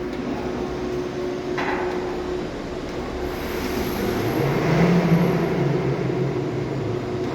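Core drill running steadily, drilling, with its sound growing louder and lower-pitched around the middle.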